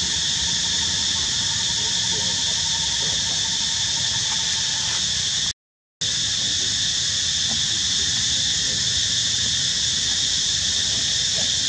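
Dense, steady insect chorus droning at several fixed pitches. The sound cuts out completely for about half a second a little after halfway, then resumes unchanged.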